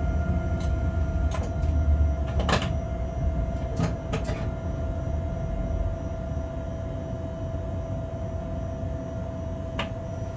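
Inside a freight locomotive's cab as the train rolls slowly: a low rumble with a steady whine over it. Several sharp clicks and knocks come in the first four seconds and one more near the end. The rumble eases a little about halfway through.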